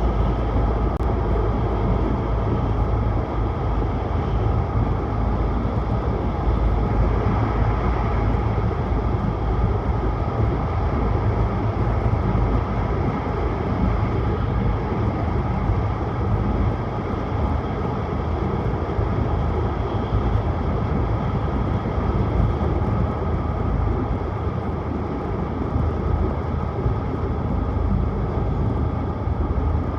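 Tohoku Shinkansen train running at speed: steady running noise with a deep rumble, unchanging throughout.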